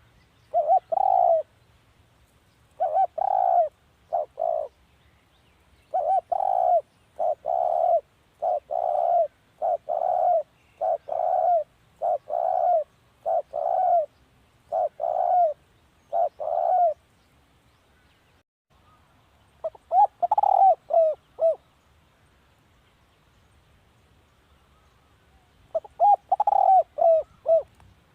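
Spotted dove cooing: a long run of short, evenly spaced coo phrases, then a pause, a quicker run of notes, and another such run near the end.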